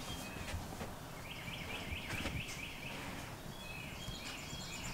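Birds singing faintly: quick runs of repeated short chirps, one run in the middle and another near the end, over a low background rumble.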